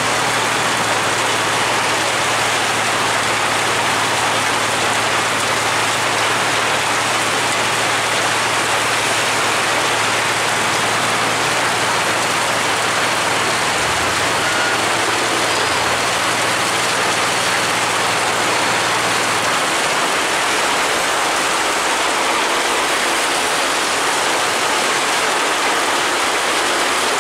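Heavy rain falling steadily. Underneath it a vehicle engine idles with a low, steady hum that stops about twenty seconds in.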